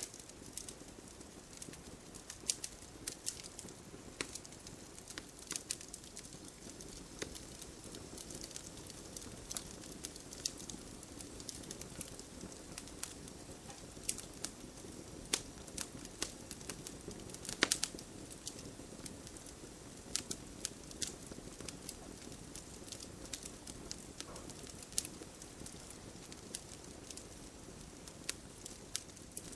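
Wood campfire crackling: irregular sharp pops and snaps over a steady low hiss of the burning flames, with one louder pop a little past halfway.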